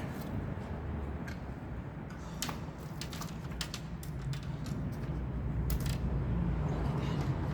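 Scattered sharp clicks and light knocks, several in a row near the middle, over a steady low rumble.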